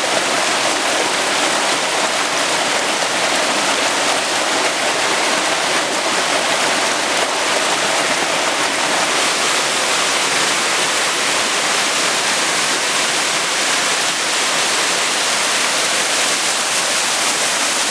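Waterfall rushing: a steady, loud roar of falling water with no change.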